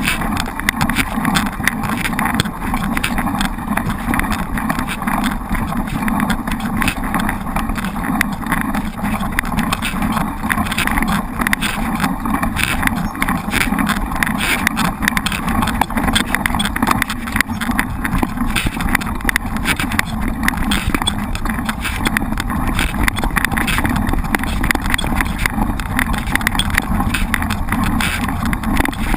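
Mountain bike ridden over a rough trail: a steady rumble of tyres and wind with a dense, continuous rattle.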